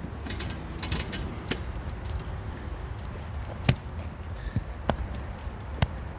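Scattered sharp clicks and knocks of a metal roofer's hatchet bar working against asphalt shingles and roofing nails, with the loudest knock about three and a half seconds in and two more near the end.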